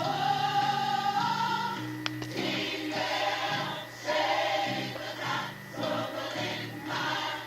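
Recorded gospel song: a choir singing over band accompaniment, with sustained sung lines and low bass notes underneath.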